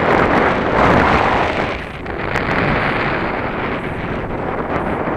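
Strong wind buffeting the microphone: a loud, rough rumble of gusts with no steady tone, heaviest in the first two seconds and easing slightly after.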